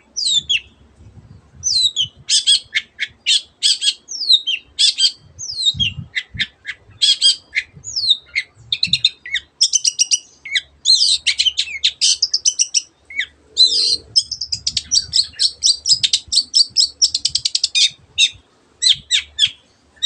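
Long-tailed shrike singing hard in rapid runs of sharp, high notes and fast trills, with mimicked phrases of canary and other birds woven in.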